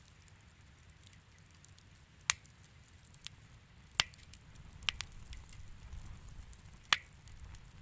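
Wood fire crackling in a fireplace: small scattered crackles over a soft low rumble, with four loud, sharp pops as the burning wood snaps.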